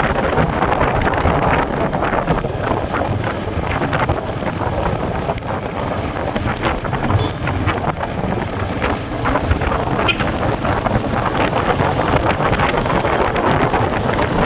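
Royal Enfield Meteor 350's single-cylinder engine running, mixed with heavy wind noise buffeting the microphone.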